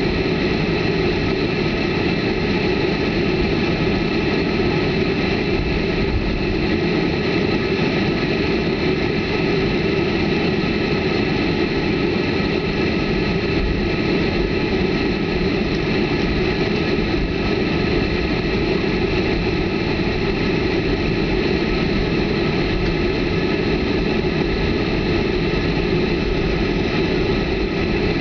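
Boeing 737's jet engines running steadily at takeoff power, heard inside the passenger cabin as a loud even rumble with a steady hum of fixed tones on top.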